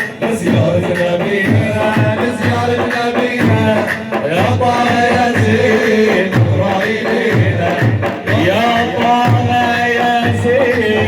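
Arabic devotional inshad music: a melody carried over a steady drum beat.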